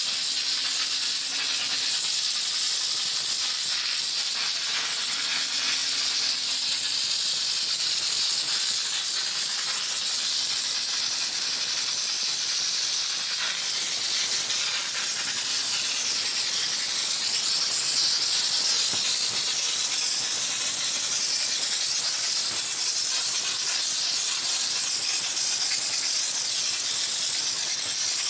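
High-pressure steam jetting from the spray gun of a small 20-bar LPG-fired steam car wash machine: a steady, unbroken hiss.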